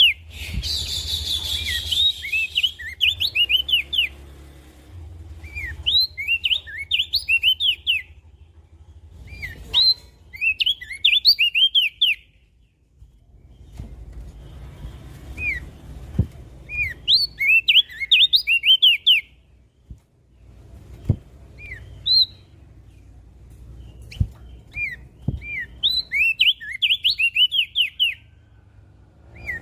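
Crested white-eye (opior jambul) singing: phrases of quick, chirpy, rising and falling notes, each lasting a second or two, repeated with short pauses between them.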